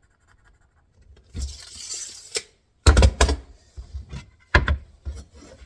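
Tools being handled on wooden boards while measuring and marking: a short scraping slide about a second in, then a run of sharp knocks and metallic clinks, roughly one every half second.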